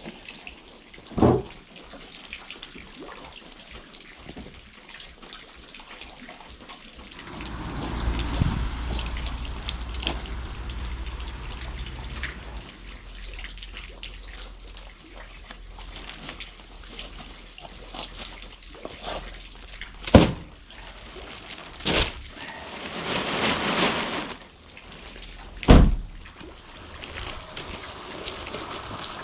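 Water sloshing and dripping in a nearly dry well, with four sharp knocks, the loudest near the end, and a low rumble in the first half.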